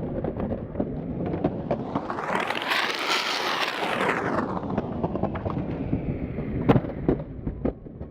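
Skateboard wheels rolling on street pavement, swelling as the board passes close about three seconds in and then fading. A few sharp clacks of the board follow near the end.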